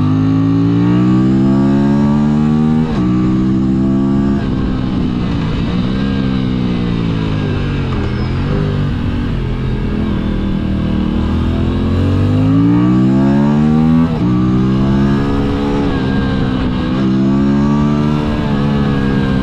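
Motorcycle engine accelerating through the gears: its pitch climbs, then drops sharply at each upshift, about three seconds and four and a half seconds in and again around fourteen seconds. In the middle it eases off, the pitch falling, before it pulls hard again.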